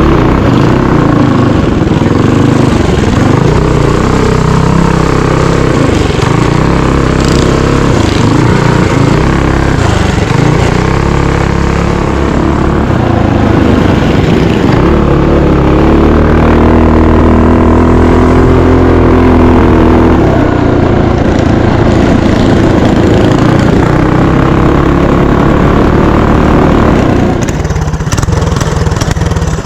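Mini bike engine running hard on a trail ride, its pitch rising and falling as the throttle is worked, loud throughout, easing off near the end.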